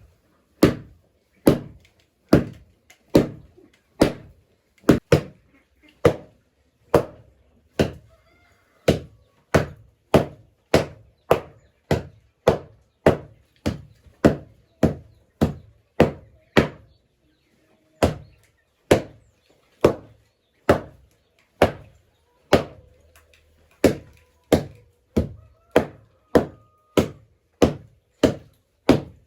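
A hand tool chopping into something solid in a steady rhythm, about one heavy blow a second, with a short pause partway through.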